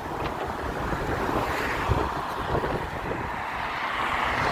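Wind rushing over the microphone in an uneven, swelling hiss, over the low rumble of a vehicle.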